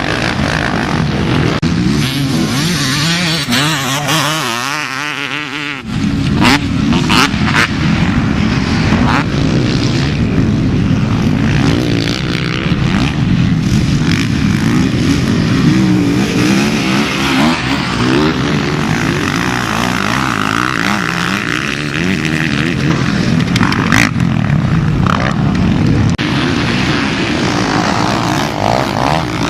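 Several motocross bikes racing, their engines revving up and down as they pass on the track. A few brief sharp knocks come about six to eight seconds in.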